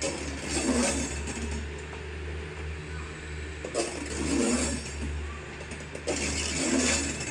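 Train rolling slowly on the rails under a steady low hum, with a wheel clatter that swells about every two and a half seconds as the wheels cross the rail joints.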